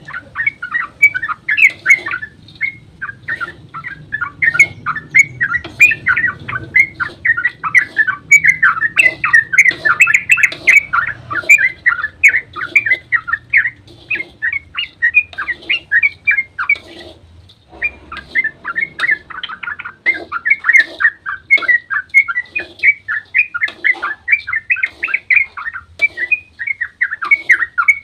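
Yellow-vented bulbul (trucukan) singing a long, rapid run of bubbly chirping notes, the excited 'ropel' song used as a lure to make other bulbuls answer, broken by a pause of about a second partway through.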